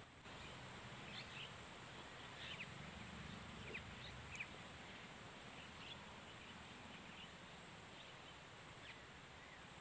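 Faint outdoor ambience with short, high bird chirps now and then.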